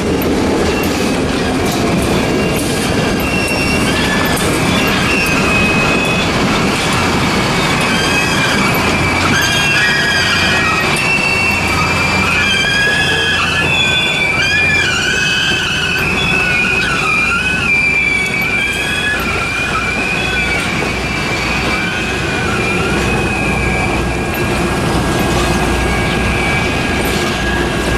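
Passenger train rolling past, its steel wheels squealing against the rails in wavering high tones from about eight seconds in until about twenty-four seconds in, over the steady running clatter of the cars.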